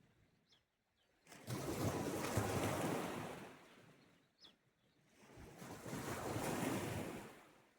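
Sea waves washing onto the shore: two surges, each swelling and fading over a couple of seconds, with quiet lulls between.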